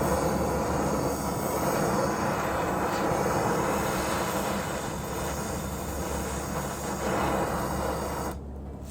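Handheld gas torch burning with a steady rushing roar as it lights the fuel in a bee smoker, shut off abruptly near the end.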